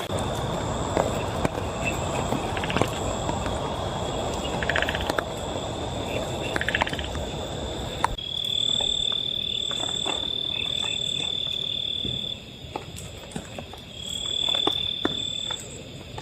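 Insects calling in a steady high-pitched drone, with a second, higher call that pulses on and off. A dense hiss under them drops away about halfway through, leaving scattered taps and clicks.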